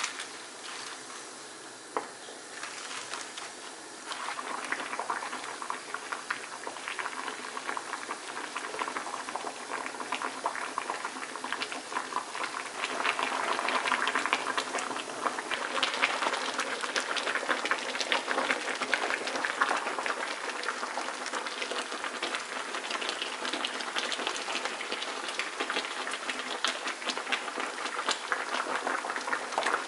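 Water boiling and bubbling in a pot, for blanching napa cabbage; quieter at first, then louder and busier from about four seconds in.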